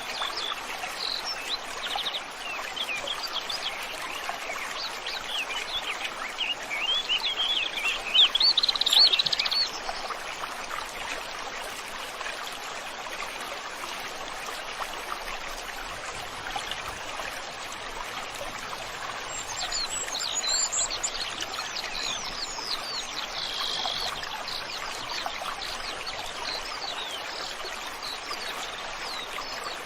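River or stream water flowing steadily, with small birds chirping and twittering over it in two spells: one through the first third, loudest near its end, and another around two-thirds of the way through.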